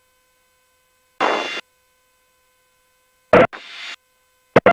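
Short bursts of radio static with sharp clicks, each separated by dead silence, with a faint steady electronic hum: the squelch or intercom gate opening and closing on the aircraft's radio audio.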